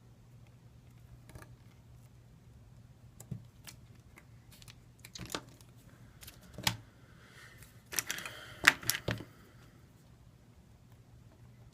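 Scattered light clicks and taps from handling small tools and tape on a phone's frame, with a quick flurry of clicks and a short rustle about eight seconds in. A low steady hum runs underneath.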